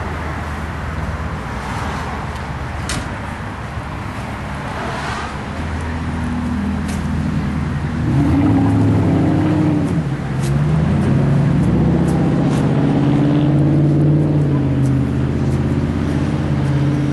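A classic Mercury sedan's engine idling and running at low speed as the car pulls in, a steady low rumble that grows fuller about six seconds in and wavers in pitch.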